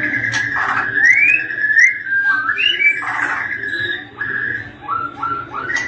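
White-rumped shama singing: clear whistled notes with rising slurs and a held steady note, broken by short chirps.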